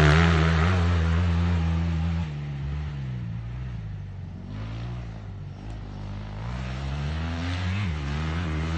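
Motocross dirt bike engine revving, fading away through the first half, then growing louder again with revs rising and falling between gear changes.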